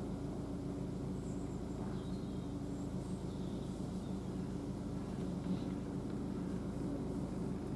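Class 66 diesel-electric freight locomotive's two-stroke V12 diesel engine running with a steady low drone.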